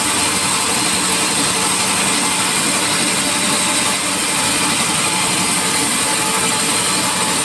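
Sawmill saw running with a loud, steady whir that doesn't change.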